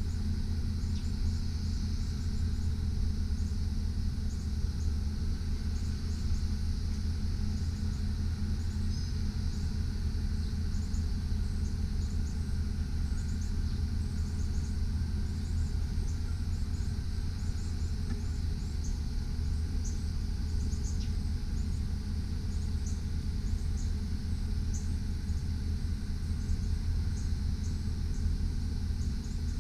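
A 2001 GMC Sierra 3500 HD bucket truck's engine running steadily, a low, even rumble with faint high ticks over it.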